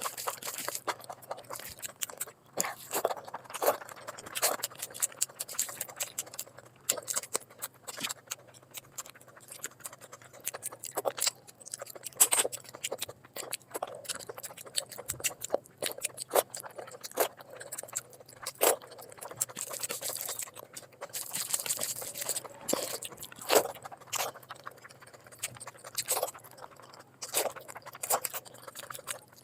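Close-miked chewing and mouth smacking of a person eating, with many sharp clicks coming irregularly throughout.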